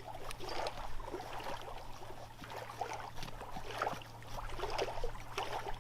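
Knife blade shaving curls off a pine stick in a run of irregular, scraping strokes: carving a feather stick for fire-lighting.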